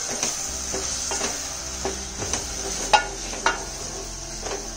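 Onions, green chillies and ginger-garlic paste sizzling in hot oil in a nonstick pot, the paste frying until it cooks. A wooden spatula stirs and scrapes across the pan bottom every half second or so, with one louder scrape about three seconds in.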